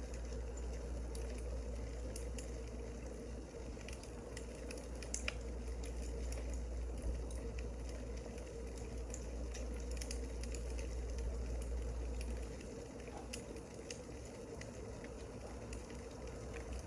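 Wood fire crackling: scattered sharp pops and ticks over a steady hiss. A low hum underneath drops away about twelve seconds in.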